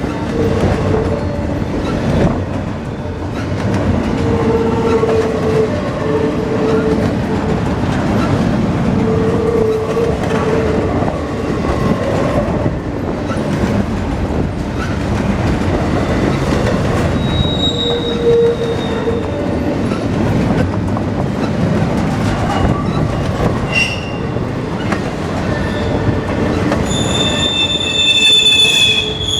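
Empty baretable intermodal freight train rolling past: steady rumble and clatter of wheels on rail, with on-and-off wheel squeal. A louder, higher-pitched squeal comes near the end.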